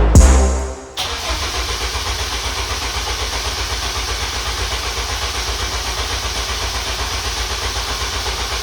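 A drum-beat music track cuts off about a second in. Then a Honda K24 engine cranks on its starter for several seconds with an even, rapid pulsing and does not catch. The immobilizer, tripped by the ECU taken from another car, is keeping it from starting.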